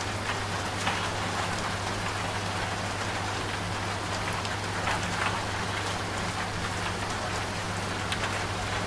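Steady rain falling, with scattered drop ticks, over the continuous low hum of a running washing machine.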